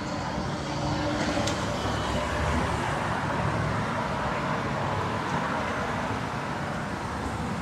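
City street traffic: motor vehicles running and passing, a steady low engine hum under a haze of tyre and road noise.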